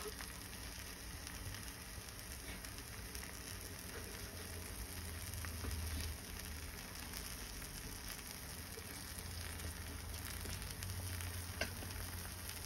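Cheese quesadilla (folded flour tortilla with cheese) sizzling steadily in a frying pan over a gas flame, with a few small crackles.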